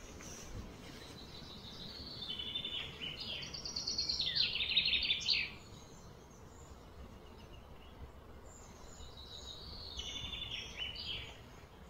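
A bird singing phrases of quick, repeated high notes that step up and down in pitch. The longest and loudest phrase comes about two to five and a half seconds in, and a shorter one comes near the end, over faint steady background noise.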